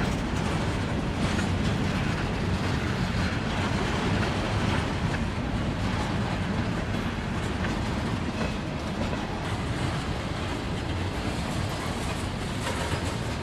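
Freight train cars rolling past, steel wheels running on the rails with a steady rumble that gets slightly quieter toward the end.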